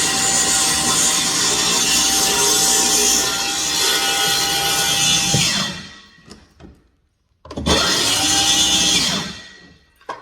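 Circular saw cutting into a wooden stair tread's nose: a long cut with a steady motor whine that winds down about five and a half seconds in, then a second, shorter run of about two seconds that starts sharply and winds down.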